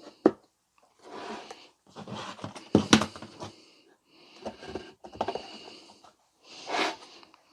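A wooden block being set in a jig and clamped on a workbench: handling rustles with sharp clicks and knocks, the loudest about three seconds in.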